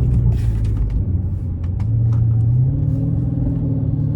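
Straight-piped Chrysler 300S Hemi V8 exhaust heard from inside the cabin. The engine note drops about a second in, then steps up in pitch twice as the transmission downshifts.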